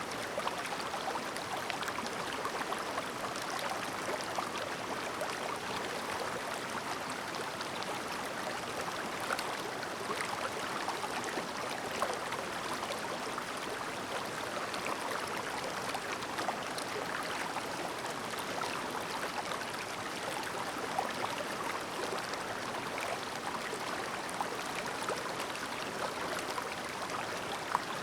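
Clear mountain stream babbling steadily over its bed, with small sharp splashes now and then.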